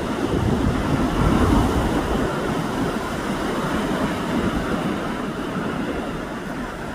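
Pacific Ocean surf washing onto the beach, a steady rushing noise that swells about a second in and then eases, with wind buffeting the microphone.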